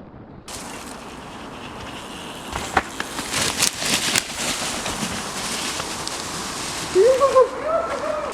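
Mountain bike ridden down a dirt trail: a steady rush of tyre and wind noise with several sharp clatters and knocks from the bike over rough ground. Near the end comes a short, wavering cry from a rider.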